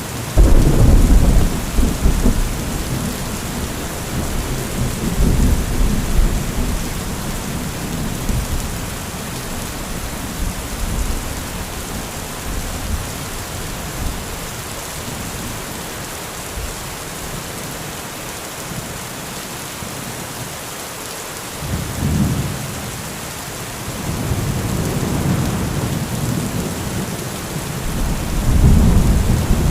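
Heavy steady rain with rolling thunder. A loud rumble breaks just after the start and dies away over several seconds. A shorter rumble comes about 22 s in, and a longer roll swells toward the end.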